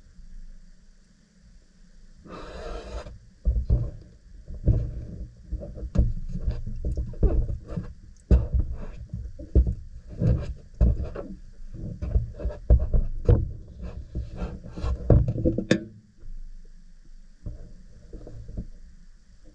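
Irregular handling noise of rubbing, scraping and light knocks, busiest in the middle and dying down near the end, with one sharp click shortly before it stops.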